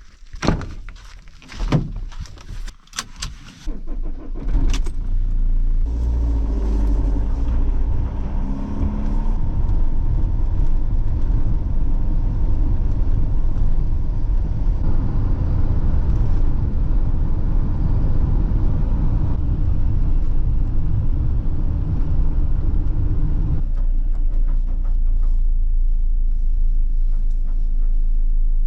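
A car engine runs steadily as the vehicle is driven, a loud low rumble that settles a little lower near the end. A few sharp knocks and clicks come first.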